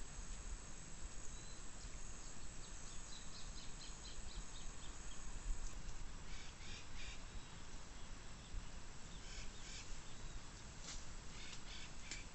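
Birds calling over steady background noise: a quick run of short, high chirps about two to four seconds in, then more short clusters of calls later on.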